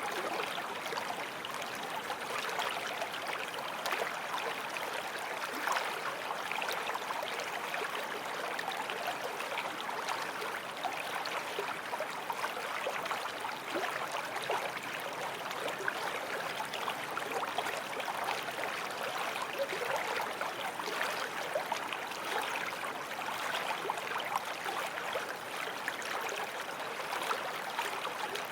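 Forest stream flowing steadily over stones, a continuous rush of water with small splashes and gurgles.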